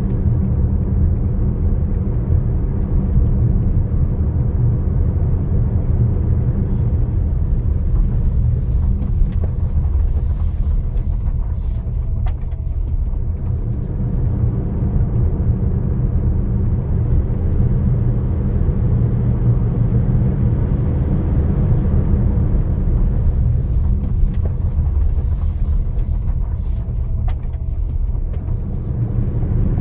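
A steady, loud low rumble with faint hissy patches at higher pitch that come back about fifteen seconds apart.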